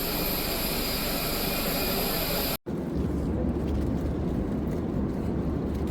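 Jet airliner noise in two separate clips: a steady hissing rush, then, after an abrupt cut about two and a half seconds in, a steady deep rumble.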